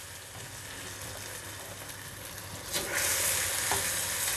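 Steady sizzle of bread slices deep-frying in hot ghee. About three seconds in, a sudden louder hissing sizzle as a hot fried bread slice goes into warm sugar syrup.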